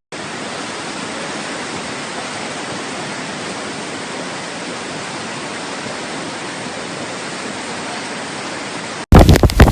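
Steady rushing of heavy rain and running water. Near the end it cuts abruptly to a much louder, gusty rush with wind buffeting the microphone.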